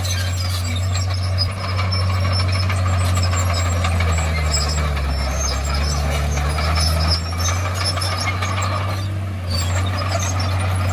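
Komatsu D51PX bulldozer's diesel engine running steadily under work, its note dipping and then rising again between about four and seven seconds in.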